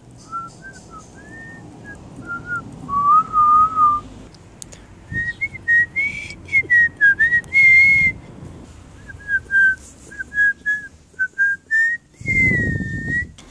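A person whistling a tune: a run of clear notes, some held and some sliding up and down. Near the end there is a short burst of rustling.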